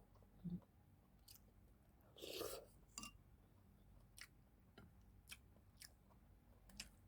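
Faint close-up chewing and mouth sounds of someone eating, with scattered small clicks and one louder burst about two seconds in.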